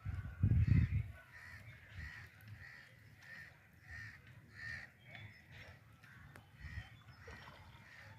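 A bird calling over and over, short calls at about two a second, with a few more near the end. A loud low thump about half a second in is the loudest sound.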